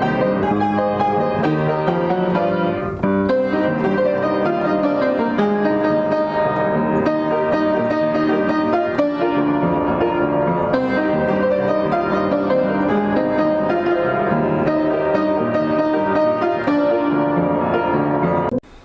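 Piano music playing steadily, then cutting off suddenly near the end.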